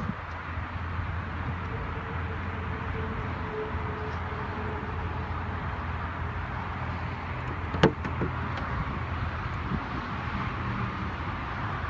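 A single sharp click about eight seconds in, the Lamborghini Huracán's front trunk lid being worked, over a steady low hum.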